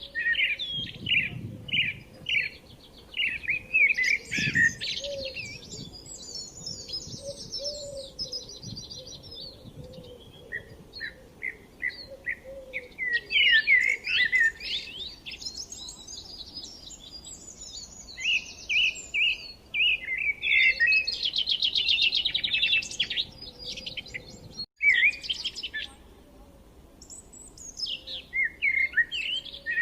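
Small birds chirping and singing: runs of quick repeated chirps and fast buzzy trills, several calls overlapping, with a momentary dropout about 25 seconds in.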